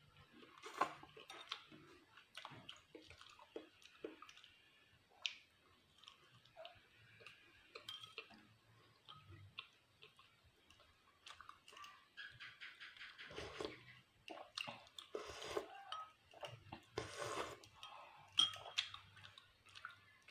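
Close-up eating sounds: wet chewing and mouth noises, with occasional clinks of utensils against dishes.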